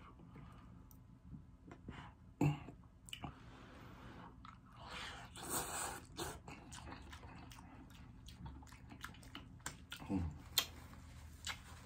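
Close-up mouth sounds of someone eating instant carbonara noodles: wet chewing with many small clicks, and a noisy slurp about five to six seconds in.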